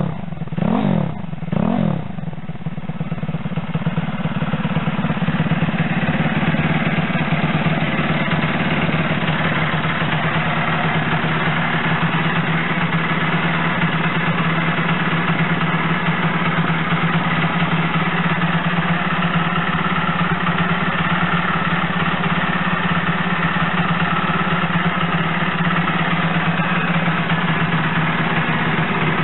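Single-cylinder four-stroke 1P60 engine of a Chinese Monkey-style minibike running through a Minimoto Power Up muffler with a CBR400RR silencer. It is blipped twice in quick succession in the first two seconds, then settles into a steady idle.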